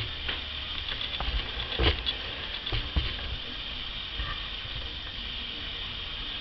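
Common blackbird bathing: a few short, irregular splashes and patters in the first three seconds, the loudest about two and three seconds in, over a steady background hiss.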